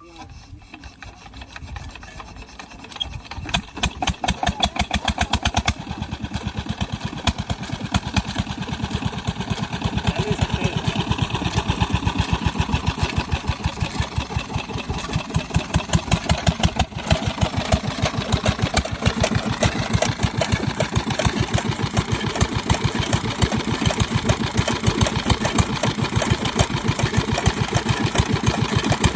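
Stationary Petter diesel engine, driving a toka chaff-cutter machine, picking up speed over the first few seconds and then running steadily with an even, rapid beat. It gets a little louder from about halfway through.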